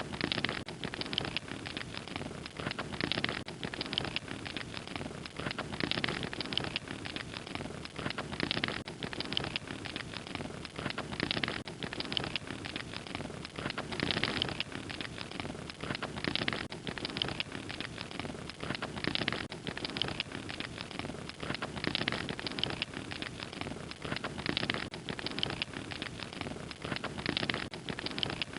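Fire crackling steadily, with a dense stream of small pops and snaps over a soft hiss.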